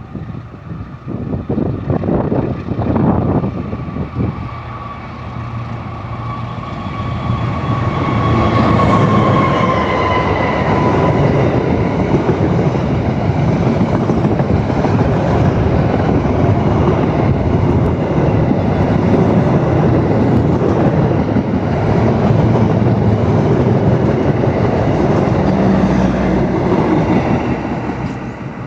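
A train hauled by a KAI CC206 diesel-electric locomotive passing. There are knocks at first, then a tone that falls in pitch as the locomotive goes by, about nine seconds in. After that comes a loud, steady rolling noise of the wagons on the rails, which fades near the end.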